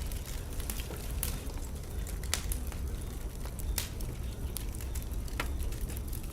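Wood fire burning in a fireplace: a steady low rumble of flames with irregular sharp crackles and pops scattered through.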